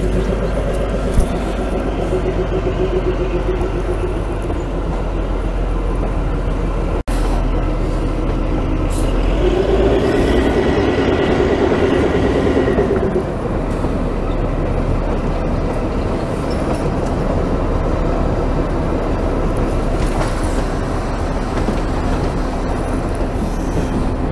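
Diesel-hauled narrow-gauge passenger train running on the Kalka–Shimla line: the steady rumble and clatter of coach wheels on the rails, with a humming note that swells briefly about ten seconds in.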